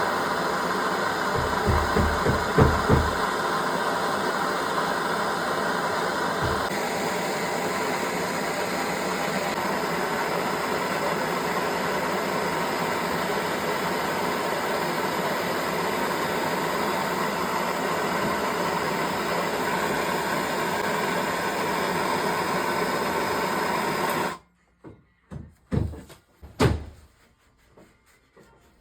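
Handheld gas soldering torch flame running steadily while heating a brass shower valve body for soldering, with a few low thumps about two seconds in. The flame cuts off suddenly about 24 seconds in, followed by a few sharp knocks and clicks.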